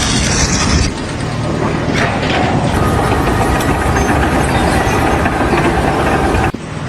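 Heavy machine engine running steadily at idle, with an abrupt change in the sound about a second in and a brief dip near the end.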